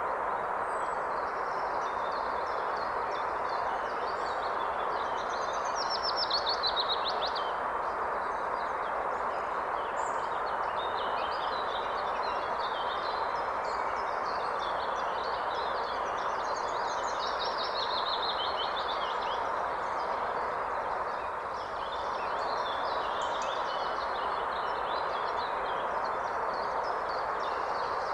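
A river or forest stream rushing steadily, with songbirds singing over it: scattered chirps throughout and a quick descending trill about six seconds in and again around seventeen seconds.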